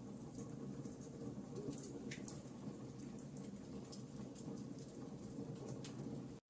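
Wood fire burning in a fireplace, crackling with scattered sharp pops over a low steady rumble. The sound drops out completely for an instant near the end.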